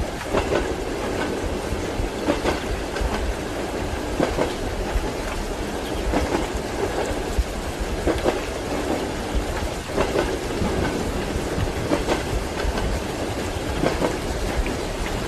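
Train wheels clattering over rail joints, heard from inside a passenger compartment: a steady rolling rumble with repeated clicks every second or so, often in small groups. Rain can be heard underneath.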